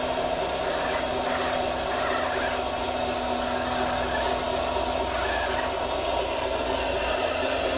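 Radio-controlled model machinery running: a steady electric motor whine with a constant hum, unchanging throughout.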